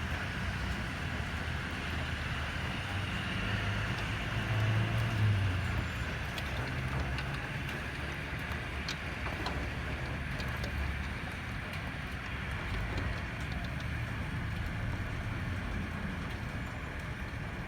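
Steady rain with traffic on a wet highway: a constant hiss over a low rumble of vehicles, swelling briefly about four seconds in.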